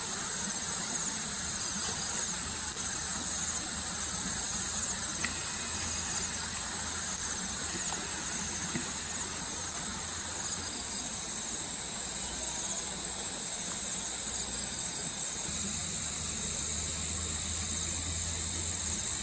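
Steady high-pitched insect chorus, made of fine rapid trilling, over a faint low rumble.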